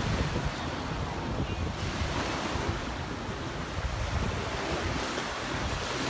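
Surf washing onto a sandy beach, with wind buffeting the microphone in uneven gusts.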